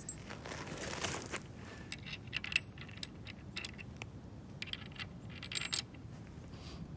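Scattered light metallic clinks and rattles of bolt hardware being handled: nuts and washers going onto carriage bolts with Loctite on the threads. A brief rustle about a second in.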